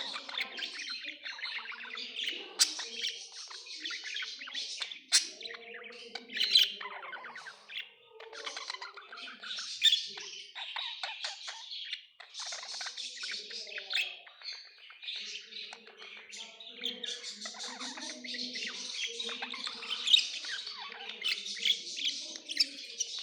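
Budgerigars chattering and warbling together without a break: many overlapping chirps, with sharper louder calls now and then.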